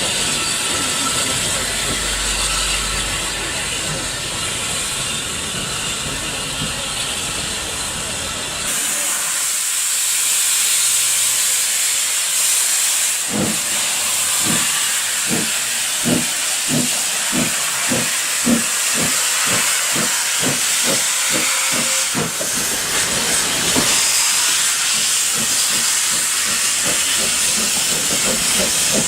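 Steam locomotive pulling away: a strong steady hiss of steam, with exhaust chuffs that start at about one a second and quicken to two or three a second. Before the hiss starts there is a low rumble with lighter hiss.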